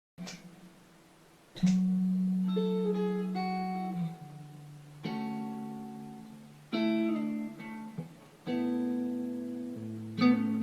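Guitar played slowly, starting right after a moment of dead silence: chords plucked and left to ring out, a new one about every one and a half to two seconds, with a few single notes moving in between.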